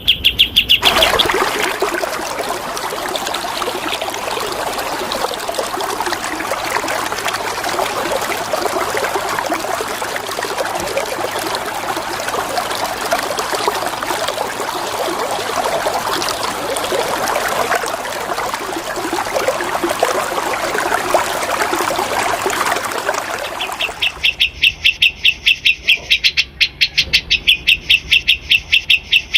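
Running water, an even steady rushing, with a songbird's fast run of repeated sharp high notes at the very start that breaks off and starts again about 24 seconds in.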